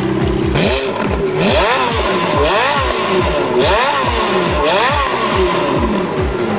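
Ferrari F430's V8 engine revving hard, its pitch sweeping up and falling back about once a second, four times over.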